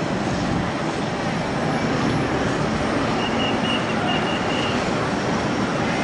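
Airbus A330neo's Rolls-Royce Trent 7000 turbofan engines running at high power on departure, a steady, even jet rumble.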